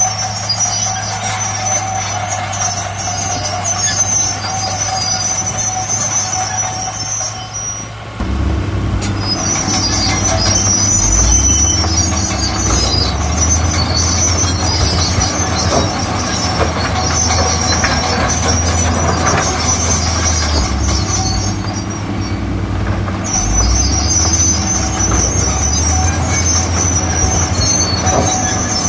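Diesel engine of a heavy earthmoving machine running steadily, then working harder and louder about eight seconds in, with metallic squeals and knocks over the engine note.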